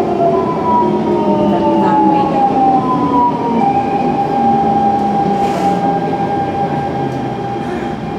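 Siemens C651 train's GTO-VVVF traction inverters whining: several tones slide down in pitch, then one steady tone holds for the second half, over the rumble of the running train.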